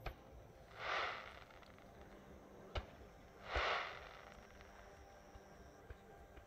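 Distant aerial fireworks: two faint sharp pops and two brief hissing swells, one about a second in and one about three and a half seconds in.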